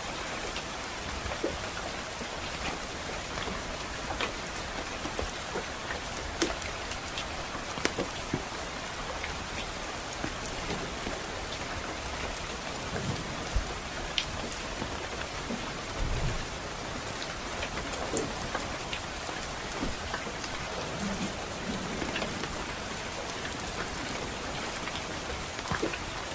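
Steady soft rain with a crackling wood fire: an even hiss of rain and scattered sharp pops and snaps from the burning logs.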